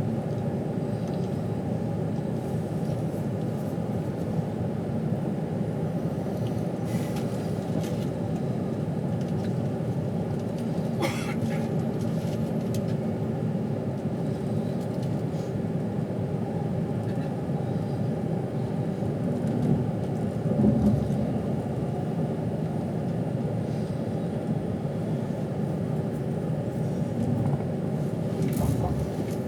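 Steady rumble of a moving train heard from inside the passenger carriage, with a faint steady hum, a few light clicks, and a brief louder low swell about two-thirds of the way through.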